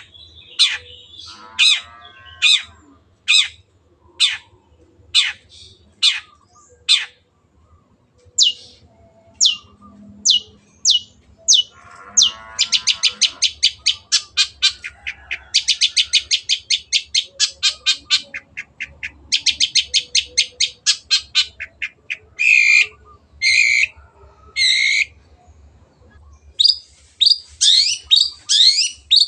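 Long-tailed shrike (Lanius schach) singing. It gives sharp, high calls about once a second, then fast rattling runs. Near the end come three harsh notes and a string of quick falling notes.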